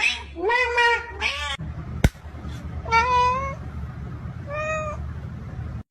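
A domestic cat meowing repeatedly: two loud meows in the first second and a half, a sharp click about two seconds in, then two quieter meows, with a low rumbling noise underneath.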